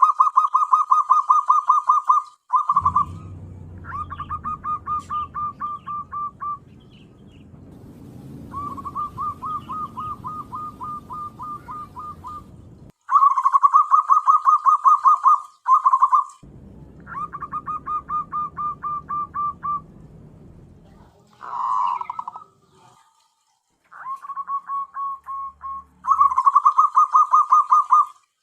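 Zebra dove (perkutut) calling: repeated runs of fast, rolling coo notes, each run lasting a second or two, some loud and some fainter, with short gaps between them. A low rumbling noise sits under several of the runs.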